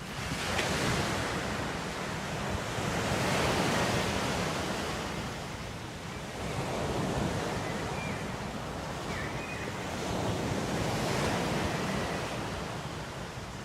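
Ocean waves washing on a shore. The rush of water swells and falls back every three to four seconds.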